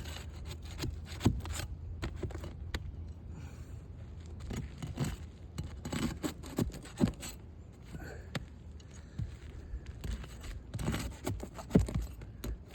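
Three-tab asphalt shingles being lifted and pried loose, scraping and rubbing against each other, with scattered sharp clicks and knocks; the brittle shingles come unsealed easily because their sealant has given out.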